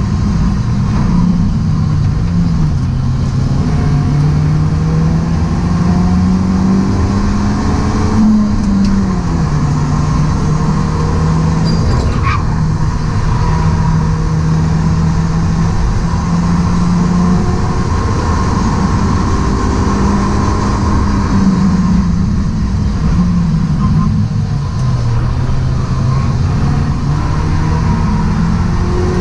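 Stock BMW E36 Compact's engine heard from inside the cabin while lapping a race track, its pitch climbing and then dropping back several times as the driver works the throttle and gears, over steady road and wind noise.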